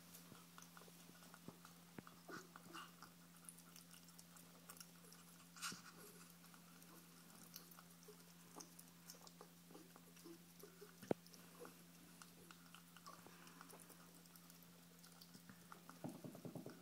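Ferrets chewing pieces of chicken: faint, scattered wet smacks and small crunching clicks, with a sharper click about eleven seconds in and a quick run of clicks near the end, over a steady low hum.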